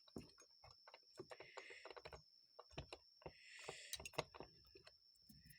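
Faint, irregular small clicks and ticks of a screwdriver and screws being worked into a carburetor body during reassembly. There are two brief light scrapes, about a second and a half in and again about three and a half seconds in.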